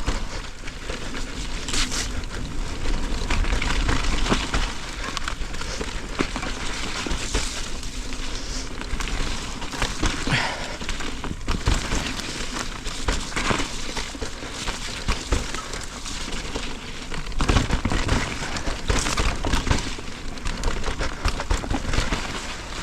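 Electric mountain bike riding down a wet, slippery trail: continuous crackle of tyres over mud, leaves and roots, with frequent knocks and rattles from the bike over bumps and a low rumble.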